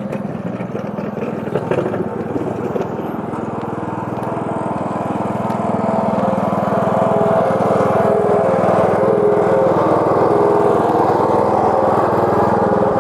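Walk-behind snowblower's small gasoline engine running steadily while clearing a sidewalk, growing louder about halfway through as it comes closer.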